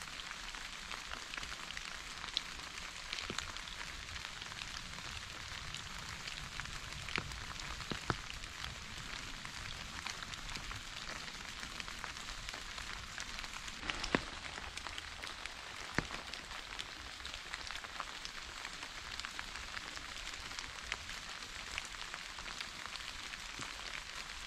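Steady rain falling, with scattered sharper drops hitting close by now and then. No thunder.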